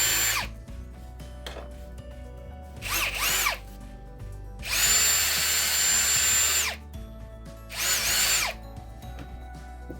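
Power drill with a 1/4-inch bit drilling out the feet of a 1x30 belt grinder, run in bursts: a run stops just after the start, then a short one about three seconds in, a longer two-second run around five seconds, and another short one near eight seconds. Its whine rises as it spins up and falls as it stops.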